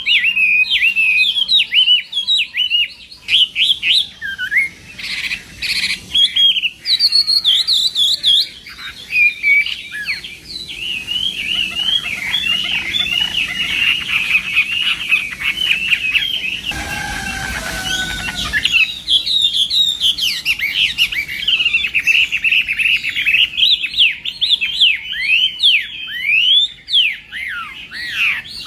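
Chinese hwamei singing a long, fast, varied song of rapid rising and falling whistled notes. About two-thirds of the way through, the song pauses for roughly two seconds under a brief rush of noise, then resumes.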